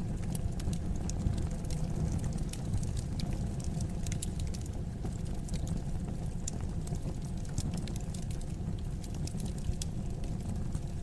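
Wood fire crackling in a fireplace: many irregular sharp snaps and pops over a steady low rumble of the burning fire.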